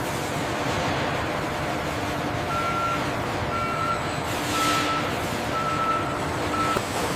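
A vehicle's reversing alarm beeping about once a second, five beeps starting partway through, over a steady run of engine and machinery noise, with a brief hiss near the middle.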